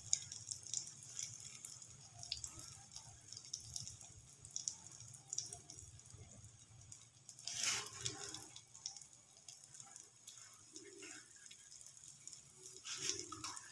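Egg-and-vegetable omelette frying in oil on a tawa over low heat: a faint steady sizzle with scattered small pops. A brief louder sound comes about halfway through.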